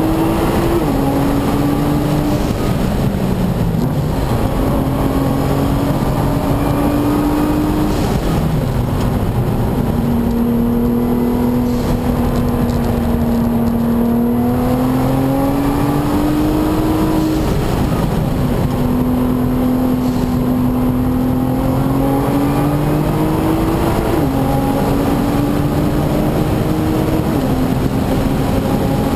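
Nissan GT-R's twin-turbo V6 engine driven hard on a race track, heard inside the cabin. Its note climbs in long pulls and drops suddenly several times, over constant road and wind noise.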